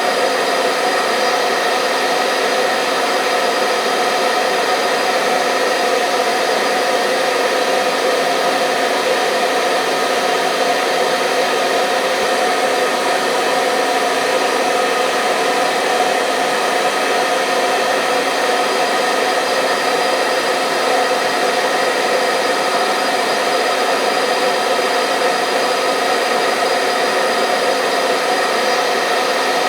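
Hair dryer running steadily, a constant blowing hiss with a steady motor hum, played as white noise to lull a baby to sleep.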